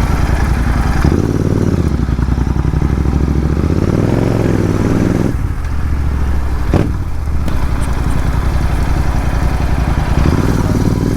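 Royal Enfield Interceptor 650's parallel-twin engine running as the bike is ridden over a badly broken road, its note shifting up and down with the throttle. A single sharp knock comes a little after the middle.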